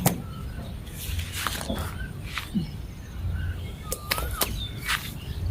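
Birds calling in short whistled notes outdoors, with a few sharp clicks or knocks scattered through.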